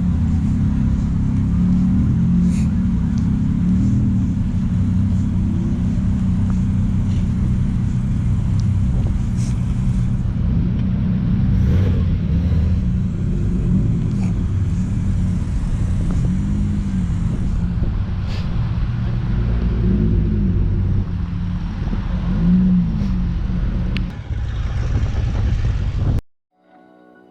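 Car engines running and being revved as cars drive off, with repeated rises and falls in engine pitch every couple of seconds; the sound cuts off abruptly near the end.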